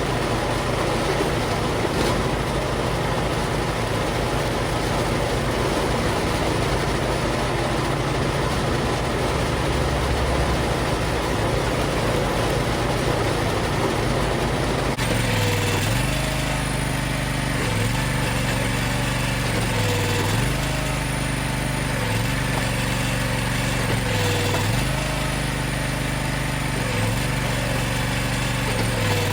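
Engine running steadily. About halfway through, the sound changes abruptly to an engine whose pitch dips briefly and recovers about every two seconds.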